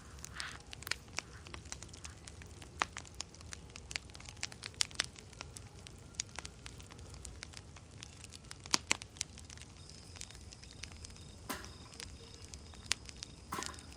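Campfire crackling: irregular sharp pops and snaps throughout, with a couple of louder snaps about nine seconds in.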